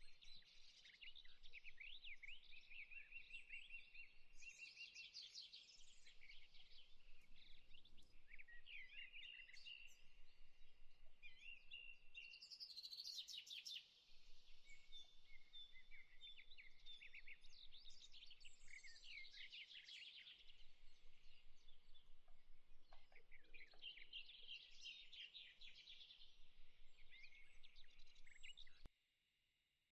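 Faint birdsong: many small birds chirping and trilling quickly and continuously. It cuts off suddenly for about a second near the end.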